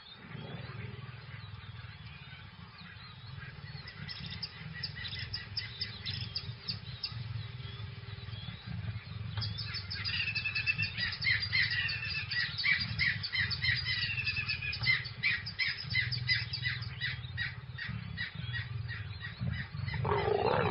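Birds calling in the bush: fast, repeated squawking notes that start about four seconds in and grow louder and busier about ten seconds in, over a low steady rumble of ambience.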